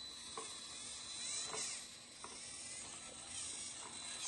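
Electric motor and gear drivetrain of a 1/12-scale RC Land Rover 6x6 model whining, the pitch rising and falling with the throttle, with a few sharp clicks.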